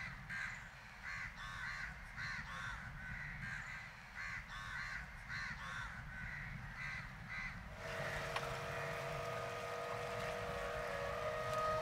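Crows cawing, a run of short repeated caws about one or two a second. About eight seconds in they stop and flute music with long held notes comes in.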